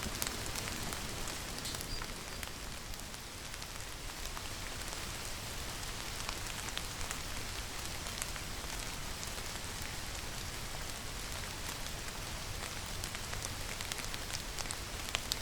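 Steady rainfall, an even hiss with the patter of individual drops striking a surface.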